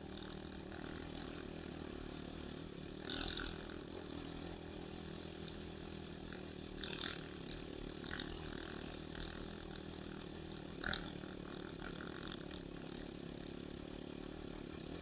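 Enduro motorcycle engine running steadily at low, even revs, with a few brief clattering knocks about 3, 7 and 11 seconds in.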